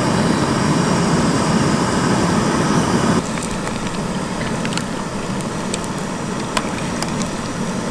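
Fish frying in hot oil in a camp pan: a steady sizzle with scattered sharp pops, its lower part dropping away about three seconds in.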